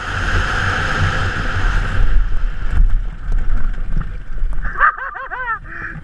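Wind rushing over the microphone of a moving dirt bike, with a low engine rumble underneath, starting abruptly and easing after about two seconds. About five seconds in, a rider gives short whooping shouts.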